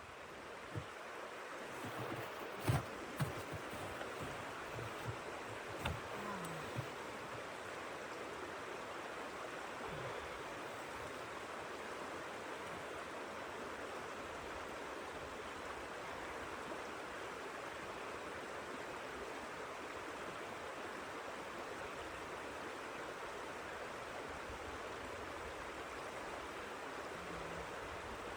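Steady rushing noise of wind, with a few short knocks and clicks in the first seven seconds.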